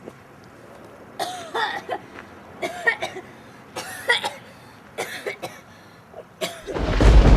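A person coughing in a string of short separate coughs. About six and a half seconds in, a loud low rushing blast starts and keeps going.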